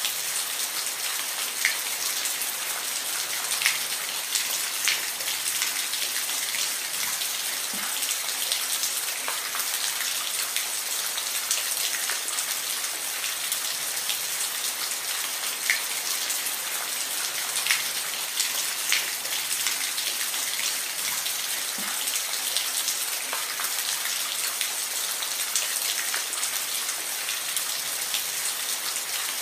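Steady rain, a dense even hiss with scattered louder individual drops ticking on a surface.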